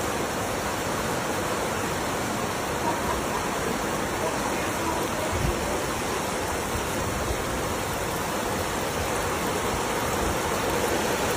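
Steady rush of flowing water, likely floodwater, an even noise with no rhythm or breaks.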